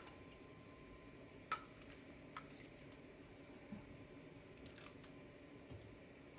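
Near silence with a few faint, short clicks of kitchen utensils as soup is ladled into bowls. The clearest click comes about a second and a half in.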